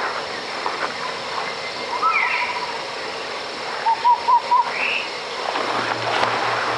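Birds calling in short chirps and quick rising whistles, with a run of four chirps about four seconds in, over a steady rush like flowing water. A low pulsing hum comes in near the end.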